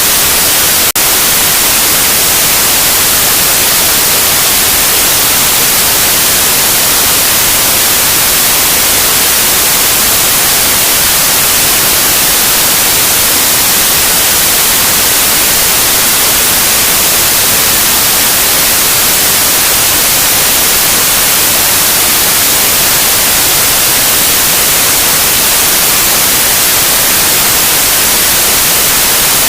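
Loud, steady white noise: an even, unchanging hiss that is brightest in the treble, with one faint click about a second in.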